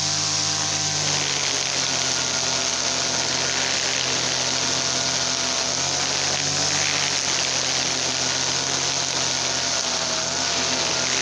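TL33 two-stroke petrol brush cutter engine running continuously at high speed, its pitch dipping and rising slightly a few times.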